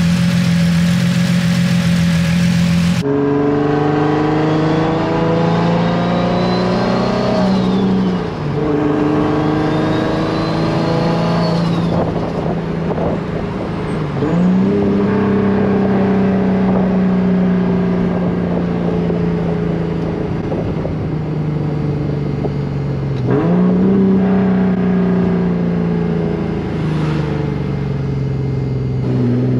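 Turbocharged Nissan 350Z's 3.5-litre VQ35 V6 pulling hard through the gears, its pitch climbing and dropping at shifts about 8 and 14 seconds in and again near the end. A high turbo spool whistle rises with the revs on each pull. Between pulls it cruises steadily.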